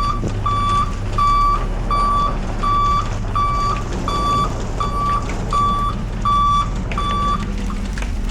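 Backup alarm of a work vehicle beeping steadily, about one and a half beeps a second, over the low rumble of its running engine, as the vehicle reverses; the beeping stops near the end.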